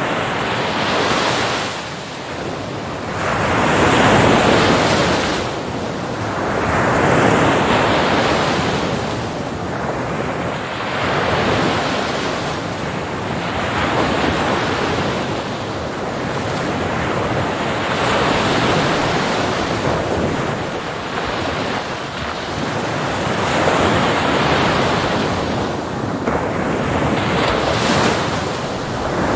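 Ocean waves breaking on a beach, the surf swelling and receding in repeated washes every few seconds.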